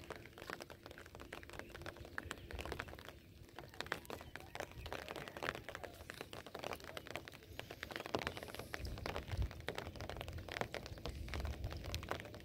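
Light rain pattering: a dense run of small, irregular crackles and ticks, faint throughout.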